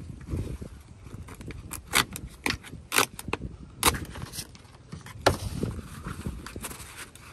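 Sharp metal clinks and knocks from hand tools and hardware during work on the camper's post bolts, about seven irregular strikes with low handling noise between them.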